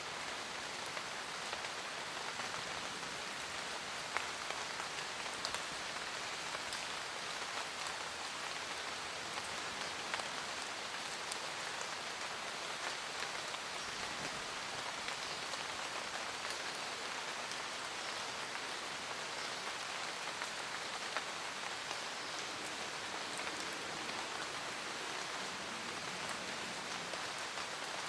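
Steady rain falling, an even hiss with scattered sharper ticks of single drops striking.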